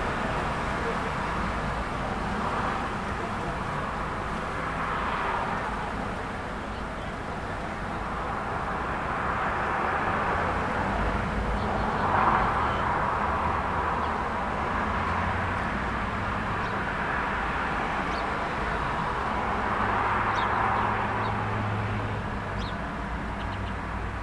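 Steady road traffic, tyre and engine noise swelling and fading as cars pass one after another, with a low rumble underneath. Faint short bird chirps come through near the end.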